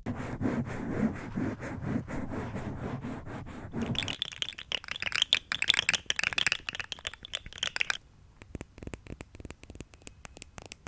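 Close-miked ASMR trigger sounds that change about every four seconds: dense scratching and crinkling, then a brighter crackling run, then sparse light clicks near the end.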